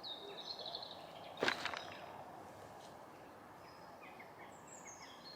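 Outdoor birds chirping: a short high call at the start and a run of quick falling chirps near the end, with one sharp, brief swishing sound about a second and a half in.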